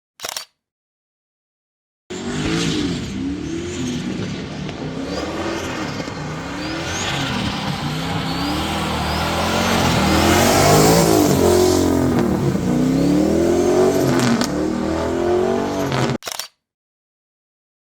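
Drift car's engine revving hard, its pitch swinging up and down over and over as the throttle is worked through a slide, loudest midway. It starts and stops abruptly, with dead silence before it and after it.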